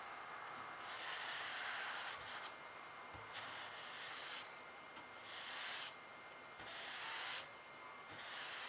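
Paintbrush strokes scraping across the painting surface: a series of scratchy swishes, each lasting about half a second to a second or two, with short pauses between them.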